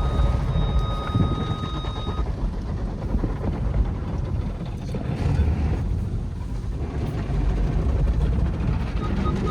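Tunnel car wash equipment heard from inside a car on the conveyor: a steady low rumble of water spray and machinery on the car. A thin, steady high tone sounds over it and stops about two seconds in.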